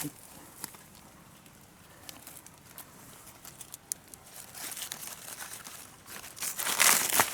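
Crinkling and rustling handling noise: scattered faint crackles at first, then a loud burst of rustling near the end.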